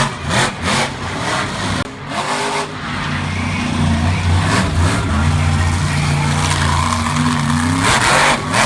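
Monster truck's big V8 engine running and revving, climbing in pitch partway through and then holding steady at high revs, with a few short sharp noisy bursts near the start and near the end.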